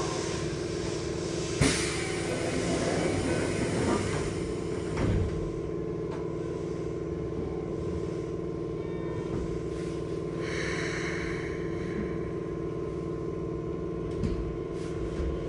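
Steady hum of a stationary Keikyu 1500-series electric train car's onboard equipment, heard from inside the cabin, with one sharp click about a second and a half in and a short hiss about ten seconds in.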